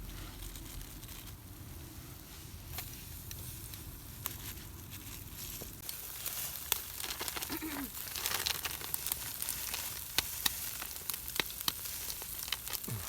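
Meat sizzling on a hot grill, fat spitting and popping. The sizzle grows louder about halfway through, with frequent sharp pops.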